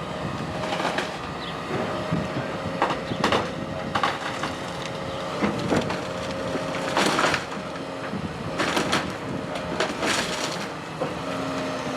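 Burnt wooden barn timbers cracking, splintering and crashing in a string of sharp breaks as the building is torn down by a demolition machine. The machine's engine runs steadily underneath.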